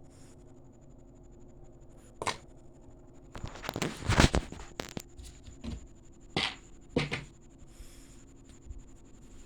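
Hands handling small objects: a scatter of short clicks and rustles, one about two seconds in, a busy cluster in the middle, then two more single clicks.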